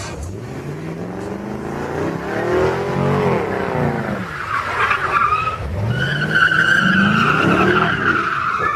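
A car engine revving up and dropping back twice, with tyres squealing in a steady high tone over the second half.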